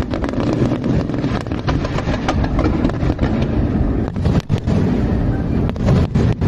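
A dense fireworks barrage: continuous overlapping booms that run together into one loud rumble, with brief dropouts where the recording overloads.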